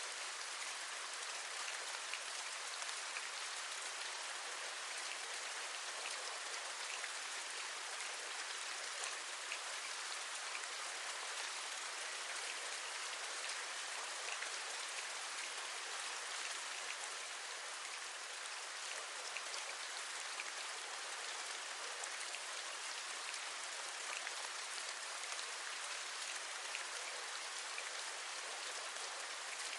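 Steady rain falling, an even hiss with many small drop taps scattered through it, as of raindrops tapping on a window ledge.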